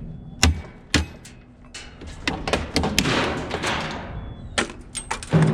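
Scrap metal being handled and worked on: a run of sharp knocks and clanks, with a longer scraping rattle about two to four seconds in.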